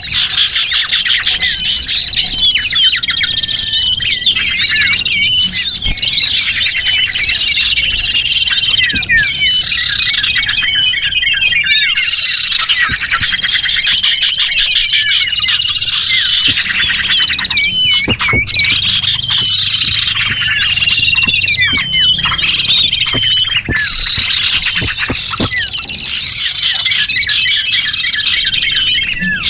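Many small birds chirping and calling over one another in a dense, unbroken chorus of quick twitters, with long high trills repeating throughout. It is a lure-call (pikat) recording made to draw small birds in.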